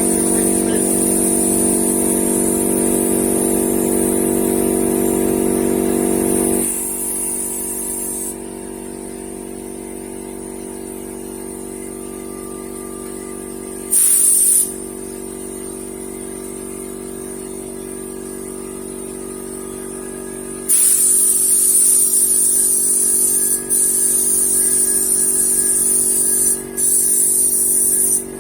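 Paint spray gun hissing in bursts as the trigger is pulled and released over the steady hum of the motor feeding it. There is a long spray for the first eight seconds, a short blip around the middle and a long spray near the end broken by two brief pauses. The motor hum is heavier during the first few seconds.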